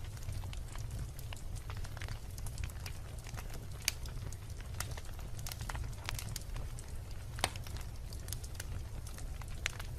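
Wood fire burning in a fireplace: logs crackling with irregular sharp pops, two louder snaps about four and seven and a half seconds in, over a steady low rumble of the flames.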